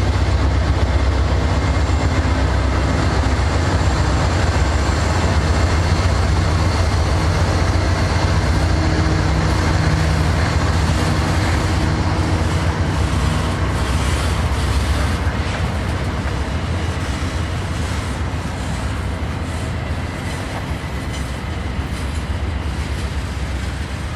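Diesel freight train passing: the locomotives' engines run with a steady low drone, then the rolling cars keep up a wide rumble that slowly fades.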